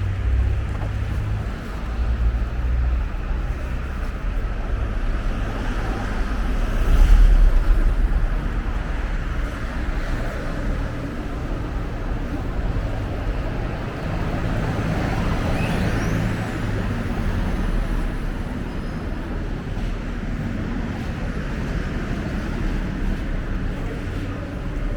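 Steady outdoor background rumble with most of its weight low down, swelling loudly for a moment about seven seconds in.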